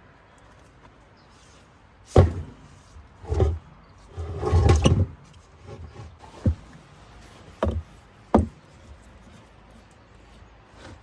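Wood knocking and thudding in irregular single blows, with a longer, louder rustling clatter of wood around the middle, as in chopping or handling timber.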